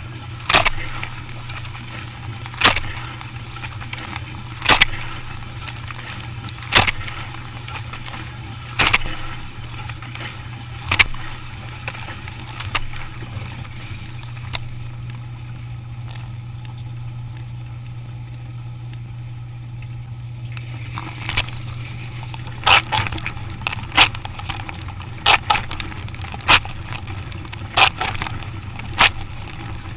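Dishwasher running: a steady low motor hum with sharp knocks about every two seconds, which pause for a few seconds midway and then come back faster and more irregularly.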